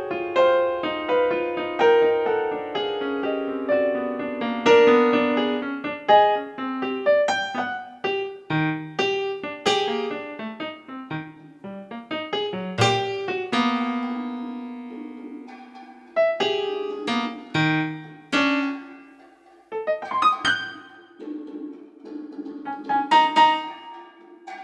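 Piano playing alone: single notes and chords struck at a gentle, unhurried pace, each ringing and fading. The playing thins out briefly about three quarters of the way through, then picks up again.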